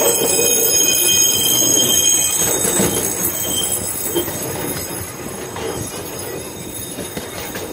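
Miniature park train rolling along its track: wheels rumbling over the rails, with a high wheel squeal for the first couple of seconds, and the sound growing gradually quieter.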